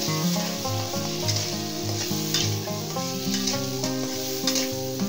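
Diced tomatoes and onions frying in hot ghee in an aluminium karahi, sizzling steadily, with a metal spatula scraping against the pan about once a second as they are stirred. Background music plays underneath.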